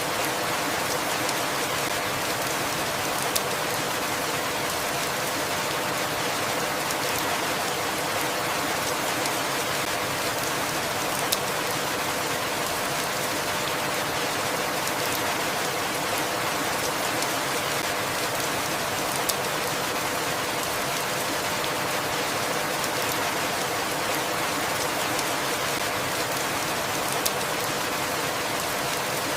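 Steady, even rainfall with an unchanging hiss, and a single sharp drop tick about every eight seconds.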